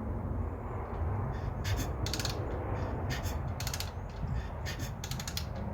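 Several short runs of rapid, ratchet-like clicking, mostly in pairs, over a steady low rumble.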